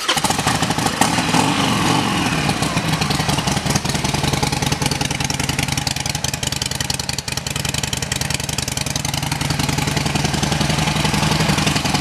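2007 Harley-Davidson Sportster 1200 Low's air-cooled 1200 cc V-twin with Stage 1 aftermarket pipes, just started. Its speed drops back over the first couple of seconds, and it then idles steadily.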